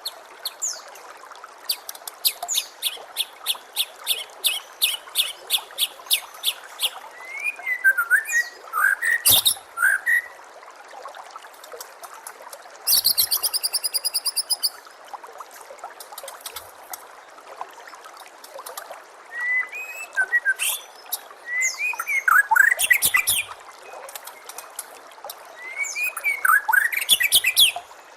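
White-rumped shama (murai batu) singing varied phrases: a fast run of repeated sharp notes, a dense trill near the middle, and whistled slurs, over a steady trickle of running water.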